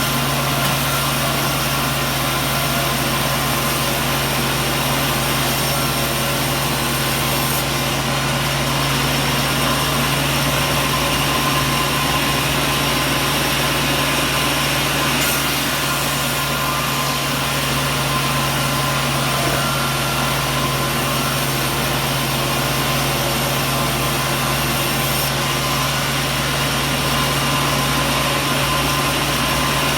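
Sawmill machinery running steadily: a continuous mechanical drone with a strong low hum under a wide hiss, unbroken and without impacts.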